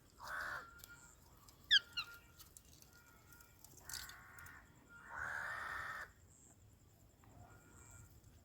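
Pet parrot making a few harsh squawks, with a short sharp chirp about two seconds in and one longer squawk of about a second past the middle.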